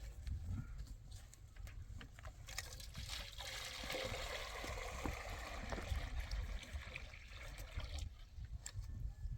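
Water running, starting about two and a half seconds in and stopping about eight seconds in, over a steady low rumble.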